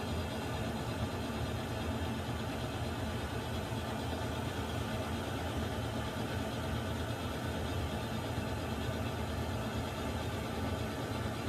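Water heater running: a steady, even low hum with a broad hiss over it, unchanging throughout.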